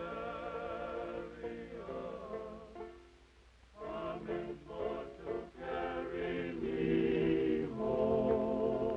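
A choir singing in harmony on long held notes, with a brief pause about three seconds in before the voices come back fuller.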